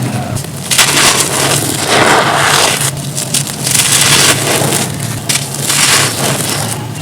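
Dry, dusty crumbly stone-like material being crushed and crumbled, in a run of crisp crunching bursts one after another.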